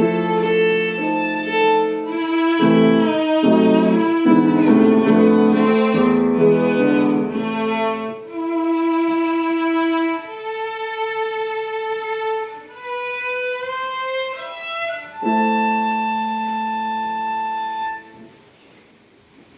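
Violin with piano accompaniment playing a slow classical piece. It ends on a long held violin note over a piano chord, and the music stops about eighteen seconds in.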